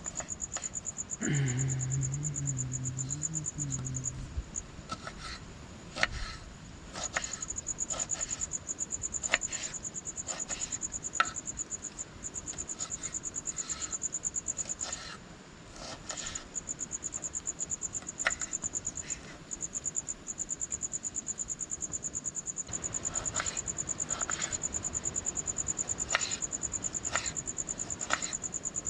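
Crickets trilling at night: a high, rapid pulsing trill that keeps going with a few short breaks. A brief low voice sound comes about a second in, and scattered light clicks and taps sound throughout.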